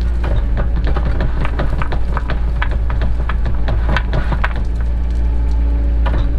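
Cat 307 excavator running steadily, with frequent sharp knocks and clatter from the bucket and its load, several knocks a second and densest in the middle.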